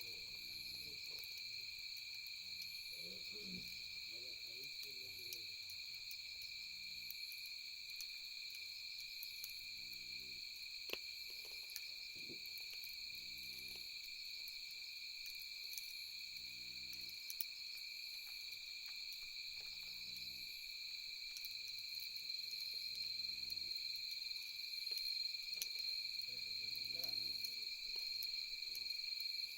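Steady high chirring of night insects, over a low animal call repeating every couple of seconds. A few faint crackles from the campfire come about eleven and twelve seconds in.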